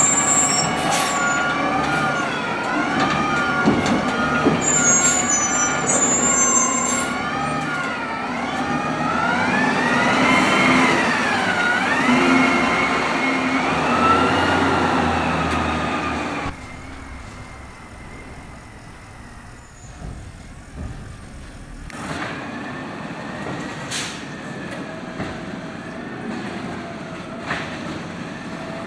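Natural-gas automated side-loader garbage truck working at idle, its hydraulic arm whining, the pitch rising and falling as the arm lifts and dumps a cart. The whine stops abruptly about 16 seconds in, leaving a quieter rumble with a fainter whine and a few sharp knocks.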